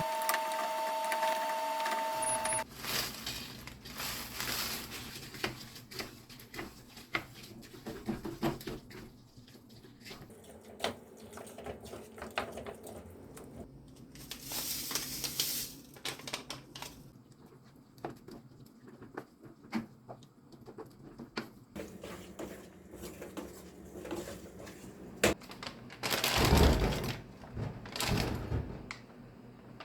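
Kitchen work sounds: scattered clicks, taps and clatter of utensils and containers. A steady two-tone hum stops about two and a half seconds in, and near the end a louder rush of noise lasts about two seconds.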